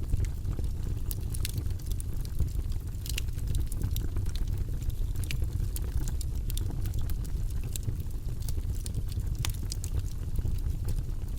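Campfire crackling: frequent irregular snaps and pops of burning wood over a steady low rumble.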